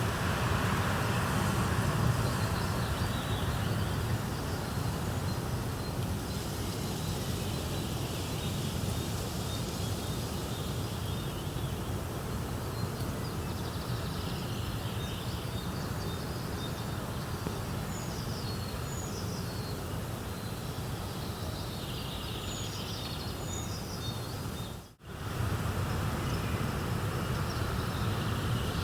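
Steady hiss of a nature ambience with small birds chirping now and then; the sound drops out for a moment about 25 seconds in, then resumes.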